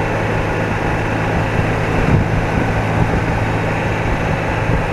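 BMW R80RT's air-cooled 800 cc flat-twin boxer engine running at a steady cruise, with wind noise over the microphone.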